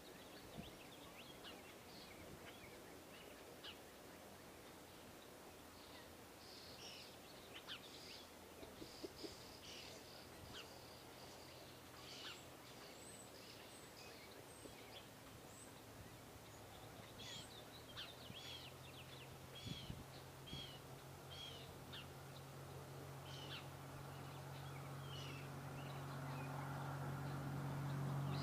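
Small birds chirping and calling in short, high notes scattered throughout. From about halfway in, a low, steady engine hum comes in and grows louder toward the end.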